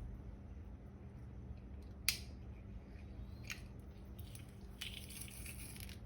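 Small kitchen handling sounds over a steady low hum: a sharp click about two seconds in, a lighter one a second and a half later, then a stretch of faint scraping near the end, as ingredients and utensils are handled while a sauce is mixed.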